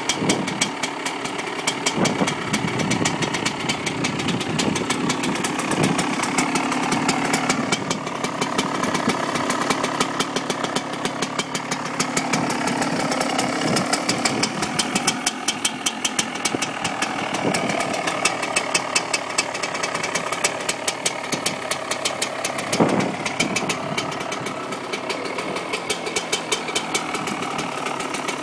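Yamaha YZ125's single-cylinder 125cc two-stroke engine idling with a rapid, slightly uneven popping beat, warmed up after a couple of minutes' idling from a cold start.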